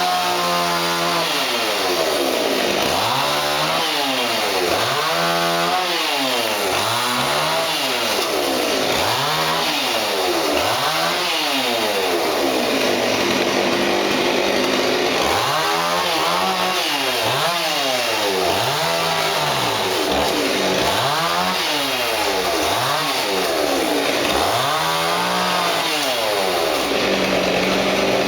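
Two-stroke chainsaw engine revved up and down again and again, its pitch rising and falling every second or two, dropping back to a steady idle briefly about halfway through and again near the end.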